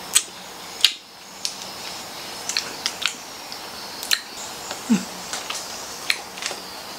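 Close-miked mouth sounds of chewing a small piece of chocolate: irregular wet clicks and lip smacks, with a brief low hum about five seconds in.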